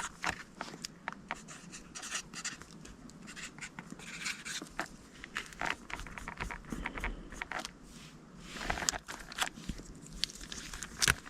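A marker writing on paper task cards, with light scratching strokes and the rustle and taps of the cards being handled, in small irregular bursts.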